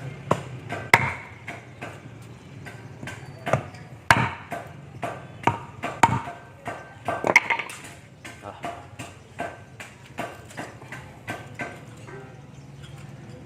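Irregular knocks and taps, sometimes a few close together, from tools and parts being handled in a submersible pump repair, over a steady low hum.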